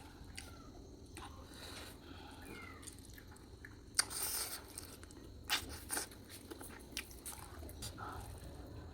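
A person chewing and biting mouthfuls of masala chicken curry, with wet mouth clicks and smacks; a sharper, louder bite about four seconds in and a few more clicks a second or two later.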